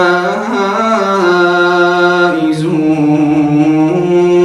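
A man's voice reciting the Quran in melodic tajwid style, holding a long ornamented note on the end of a phrase. The pitch moves in steps, dropping lower about two and a half seconds in and climbing back near the end.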